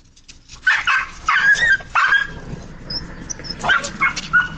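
A dog barking and yipping in a series of short, sharp calls, in two bunches about two seconds apart.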